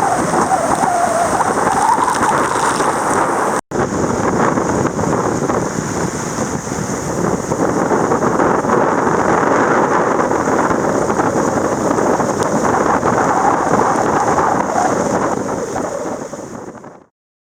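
Steady rushing noise of rain and wind, broken by a short cut about four seconds in and fading out near the end.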